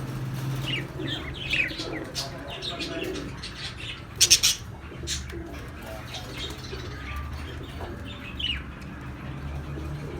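Budgerigars chirping in many short calls, with a loud, brief burst of wing flapping about four seconds in. A low steady hum runs underneath.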